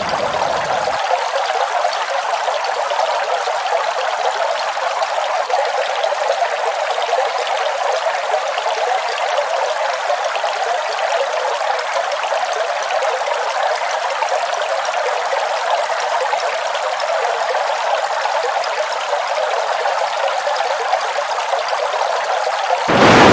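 Waterfall's steady rushing water, an even hiss. About a second in, the deep low rumble drops out, leaving a thin, bright wash. Just before the end the low end comes back, slightly louder.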